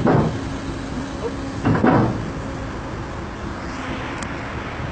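Diesel engine of heavy equipment running steadily, with two loud metallic clunks about two seconds apart.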